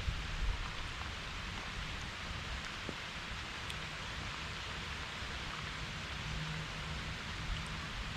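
Heavy rain falling steadily, a continuous even hiss of drops on the water and on the kayak.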